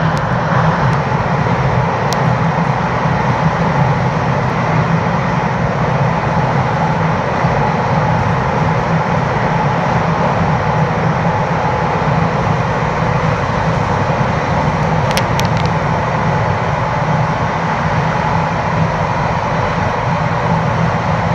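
Taiwan Railways Puyuma tilting express train running steadily through Nangang station without stopping, a loud even rumble with a faint hum above it and a couple of brief clicks.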